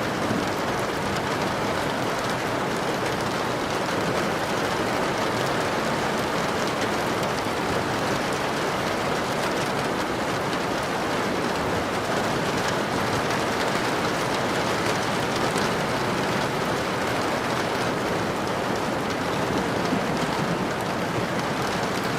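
Steady rain falling, an even wash of noise with fine drop ticks scattered through it.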